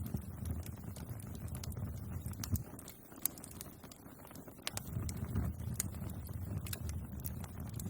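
Wood bonfire crackling, with frequent sharp pops and snaps over a steady low rumble of flames; the rumble eases off for a couple of seconds around the middle.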